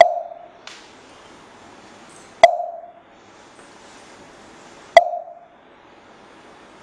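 Three hollow strikes on a wooden fish (muyu), the temple percussion that keeps the slow beat of Taoist scripture chanting. The strikes fall about two and a half seconds apart, and each leaves a short pitched ring that dies away in about half a second.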